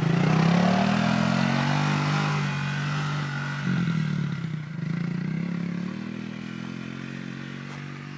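1992 Suzuki QuadRunner 300 ATV engine running as it is ridden around, its pitch rising and falling with the throttle, growing fainter as it pulls away.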